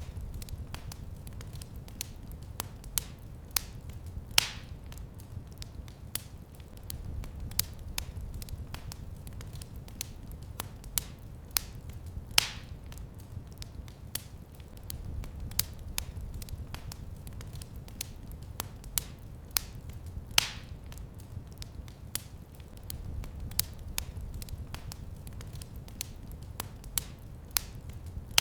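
Wood fire crackling in a fireplace: irregular sharp snaps and pops, a few louder ones, over a steady low rumble of the flames.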